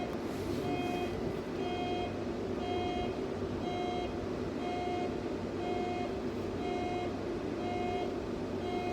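Electronic warning beeper sounding a short beep about once a second, evenly and without pause, over a steady electrical hum.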